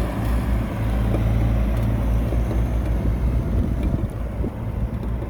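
Heavy diesel engine of earthmoving machinery running with a steady low drone.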